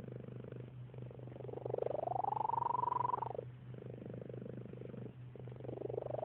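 Domestic cat purring steadily, with a chirping, bird-like note over the purr. About a second and a half in the note rises in pitch, holds for about two seconds and drops away, and another begins near the end.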